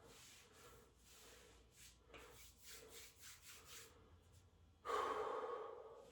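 A man breathing hard: a run of short, quick breaths, then a louder, longer exhale about five seconds in.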